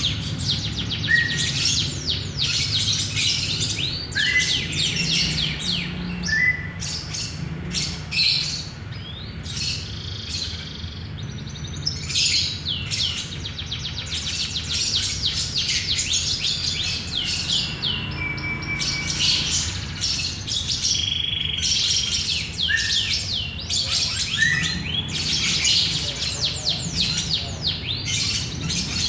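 Lovebird chattering: a dense, rapid run of high chirps that thins briefly about nine to twelve seconds in.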